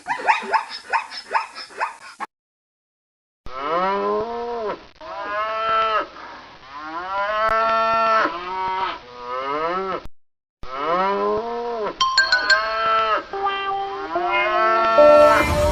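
Cattle mooing: a string of long, drawn-out moos that rise and then fall in pitch, one after another, with a short break about ten seconds in. A quick run of short calls comes first, about two seconds long, then a pause of about a second.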